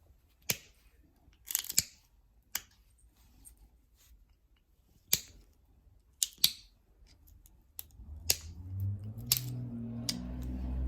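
Sharp, scattered clicks and snaps of novaculite being knapped, about ten in all, with a quick cluster of them early on. Low background music fades in about eight seconds in.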